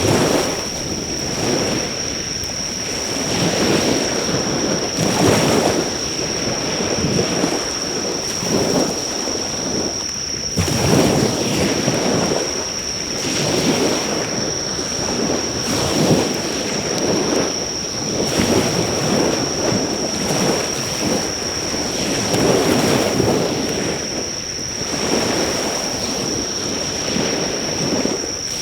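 Sea waves surging and breaking on the shore in slow swells, with insects keeping up one steady high-pitched trill throughout.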